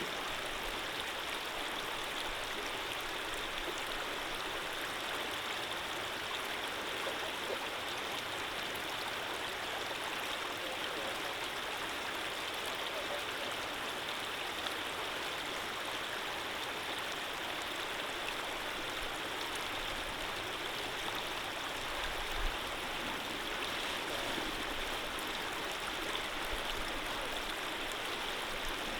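A small stream of running water flowing steadily with an even rushing sound.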